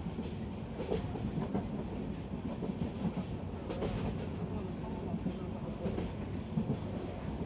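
Passenger train running along the track: a steady low rumble with an occasional short clack from the wheels.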